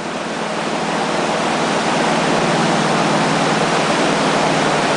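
River rapids rushing: whitewater making a loud, steady rushing noise that grows a little louder over the first couple of seconds, then holds.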